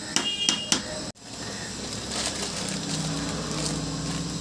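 Three quick metallic clinks of a utensil against a cooking pot, then the steady sizzle of curry cooking in the pot. A low hum joins near the end.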